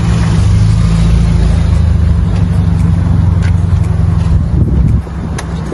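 Kia Cerato's engine idling steadily, a loud low hum close by, with a few light clicks; the hum dips briefly about five seconds in.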